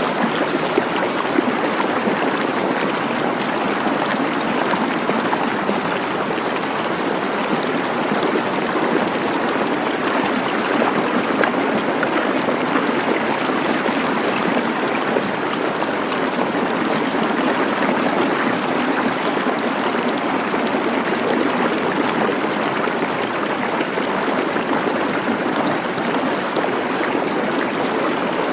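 Water flowing in a stream, a steady, unbroken rush.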